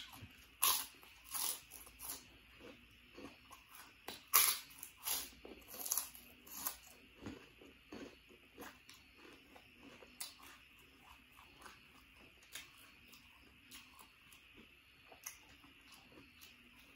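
Close-miked mouth sounds of a person biting and chewing crunchy food. Loud, crisp crunches come about once or twice a second through the first seven seconds or so, then give way to quieter chewing.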